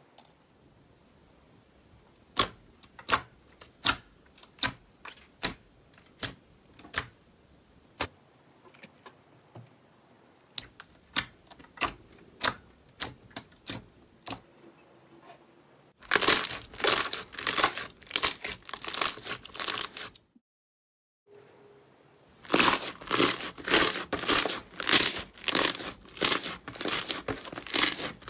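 Slime being pressed and worked by hand: first a run of sharp single pops, roughly one or two a second, then dense rhythmic crackling and crunching. The sound cuts out completely for about a second in the middle, then the crackling resumes.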